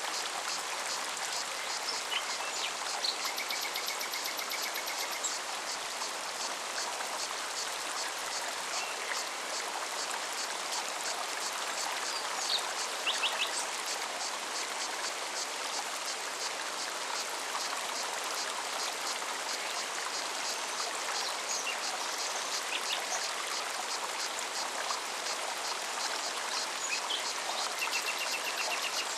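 Mountain forest stream running steadily, with a cicada's fast, even pulsing song over it. Short high bird trills come in a few seconds in and again near the end.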